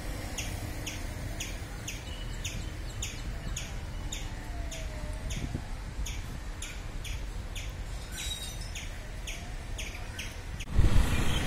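A small bird calling one short, high chirp over and over, about two to three a second, over a steady low background rumble. A louder rush of noise comes in near the end.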